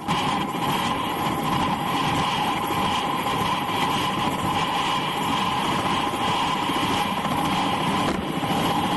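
UH-60 Black Hawk helicopter running: a steady, unchanging whine from its turbine engines over a dense low rumble.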